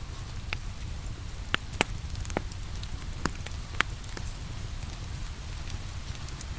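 Steady rain hiss with a low rumble, over which a wood fire in a fireplace crackles with several sharp pops, most of them in the middle of the stretch.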